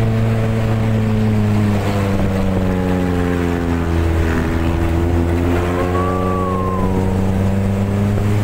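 A jeep's engine running under way, its note dipping in pitch through the middle and then climbing again as engine speed changes.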